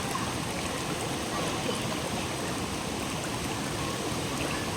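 Shallow forest river flowing steadily over rocks, an even rushing of water.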